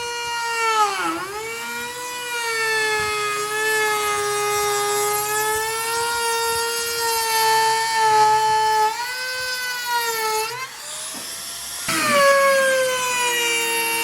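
High-speed electric power tool whining at a high, steady pitch, dipping sharply about a second in and wavering slightly through the run. Near the end it drops away for about a second, then comes back up suddenly.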